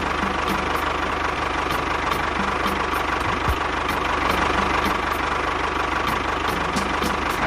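Small engine idling steadily at an even pace, with a faint regular ticking over it.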